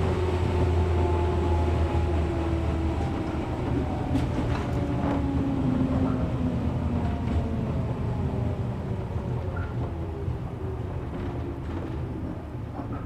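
Inside a resistance-controlled 113 series electric train car: the traction motors and gears whine over the low rumble of the running gear, the whine falling steadily in pitch as the train slows down. A few short clicks from the wheels on the rails sound about four to six seconds in.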